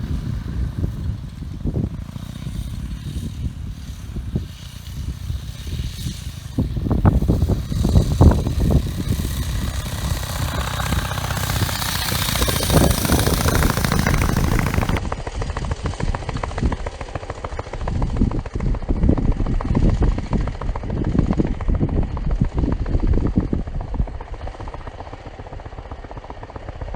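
1920 Douglas W20 2 3/4 hp flat-twin motorcycle engine running while being ridden, with an uneven, low putt-putt exhaust beat. A rushing hiss swells about halfway through.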